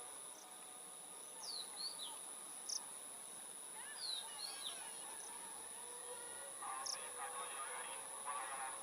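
Faint outdoor ambience with birds calling: a few short, high, falling chirps, then a burst of honking calls near the end, over a steady high whine.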